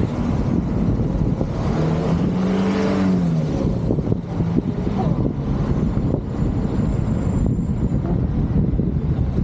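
Motor vehicle engine running under a dense, steady rush of low noise. About two seconds in, an engine note rises and then falls again over a second or so.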